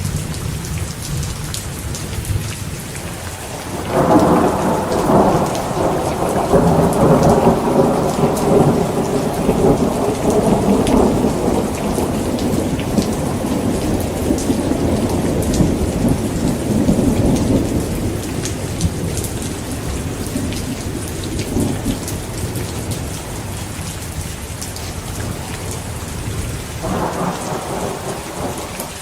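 Heavy rain falling steadily, with a long roll of thunder that breaks in suddenly about four seconds in, rumbles for over ten seconds and fades away, and another rumble starting near the end.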